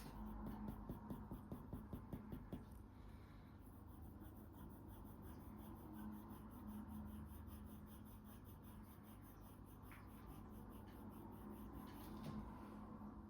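Faint scratching of a coloured pencil drawing light, short strokes on paper, with a quicker run of strokes in the first couple of seconds and softer, steady sketching after.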